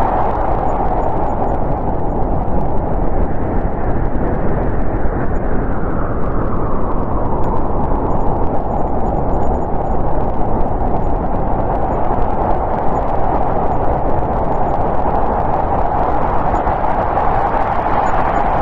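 Snowstorm wind blowing steadily: a deep rumble under a hollow howl that slowly wavers in pitch.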